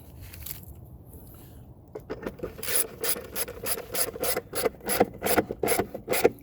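Hand ratchet wrench clicking in quick, regular strokes, about three a second, as a bolt is run in; it starts about two seconds in.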